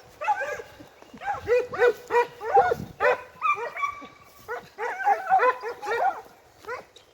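A pack of Italian hounds (segugi) giving tongue: many short, high, arching yelps and bays from several dogs overlapping in quick succession, the cry of the pack on a hare's scent.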